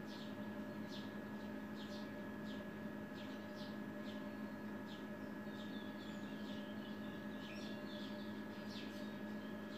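Small birds chirping again and again, short high falling chirps that come thicker near the end, over a steady electrical hum.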